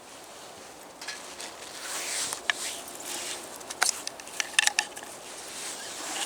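Handling noise: a run of small clicks and light clinks starting about a second in, with a cluster of sharp, briefly ringing taps around the middle.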